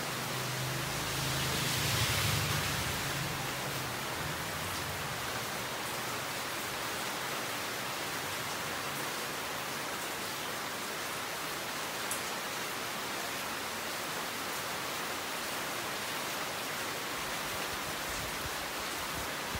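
Steady rain falling, an even hiss with a brief louder swell about two seconds in.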